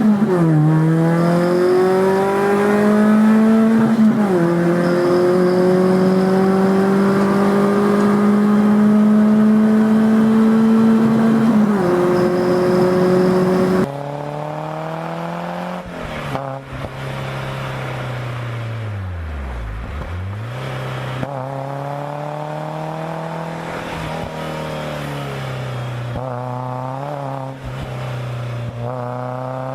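Four-cylinder performance car engine pulling hard under load, its pitch climbing slowly with sudden drops at upshifts about 4 and 12 seconds in. After a cut about 14 seconds in it is quieter: the revs fall sharply and climb again around the middle, then several quick rev blips near the end.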